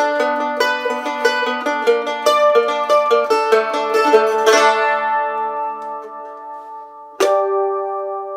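Mandolin picked in a fast run of notes, then a strummed chord about halfway through that is left to ring and fade. Another sharp chord near the end rings on.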